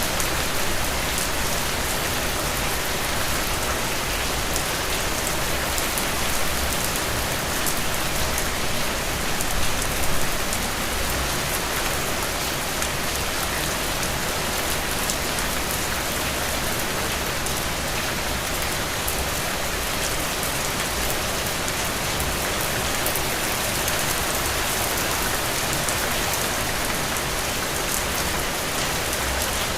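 Steady rain falling on a surface, an even hiss with scattered drops ticking through it, swelling briefly louder about ten seconds in.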